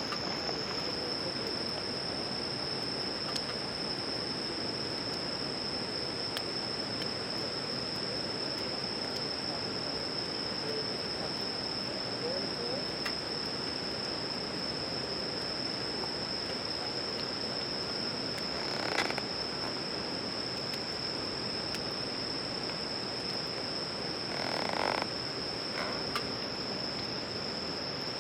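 Crickets trilling in a continuous, steady high-pitched chorus, with two brief louder noises about nineteen and twenty-five seconds in.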